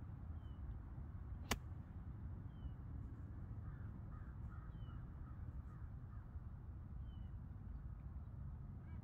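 Birds calling: a short high chirp repeated about every two seconds, with fainter calls in the middle. One sharp click about a second and a half in.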